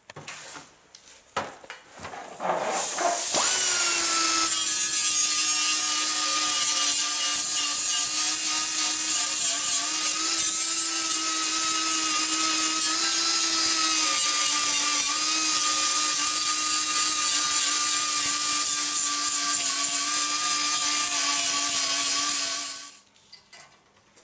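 Electric grinder spinning up and abrading a steel body panel, cleaning the metal back before welding. After a few handling clicks, a steady high whine over a harsh scraping sound runs for about twenty seconds, then cuts off near the end.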